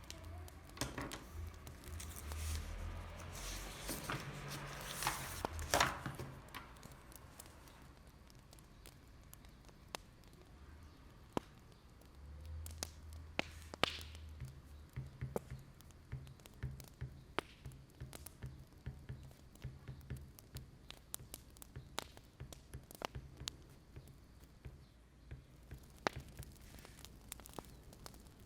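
Wood fire crackling, with scattered sharp pops and snaps at an uneven pace; a denser, louder stretch of crackle and rustle in the first few seconds.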